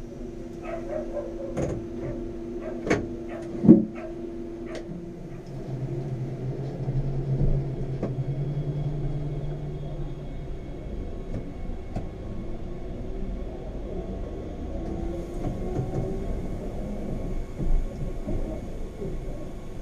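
Train running, with a steady hum and several sharp clicks and knocks in the first four seconds. A lower hum comes in about five seconds in and fades out around ten seconds.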